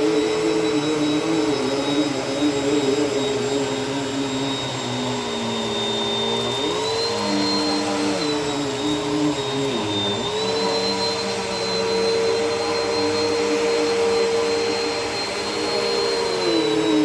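Bissell upright vacuum cleaner running over carpet with a steady motor hum. Its pitch dips and recovers a few times.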